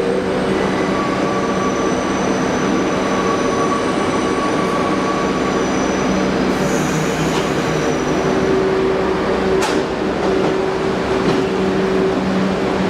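New York City Subway R62A train running through a station: a loud, steady rumble of wheels on rail with several held whining tones over it, and a single sharp clank about ten seconds in.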